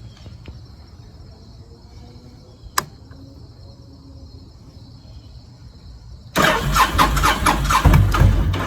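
A sharp click, then about six seconds in the Honda VTX's electric starter cranks the V-twin engine with fast, even pulses for a little over two seconds before stopping, powered by a newly fitted gel battery.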